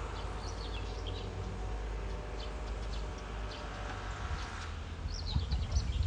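A small bird giving short, high chirps in clusters, with a denser run of chirps near the end, over a steady low rumble.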